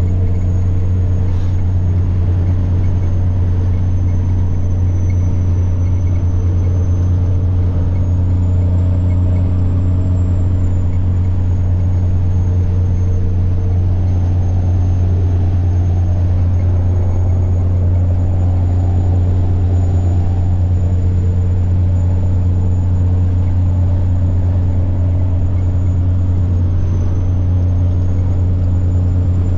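Semi-truck diesel engine running steadily under way, a deep even drone with a thin high turbo whine on top that drifts slightly in pitch, rising briefly and dipping once near the end.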